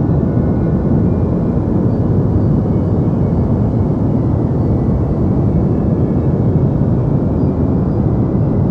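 Deep white noise: a steady, even rushing noise weighted toward the low end, like a dull rumble, with no rhythm or change.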